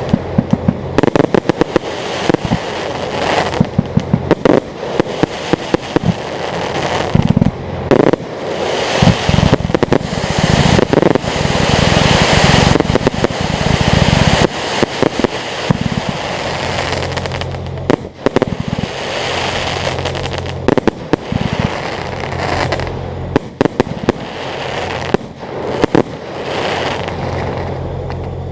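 Fireworks display: a fast, irregular string of sharp bangs and crackling from aerial shells, densest around the middle. A steady low hum runs underneath in the second half.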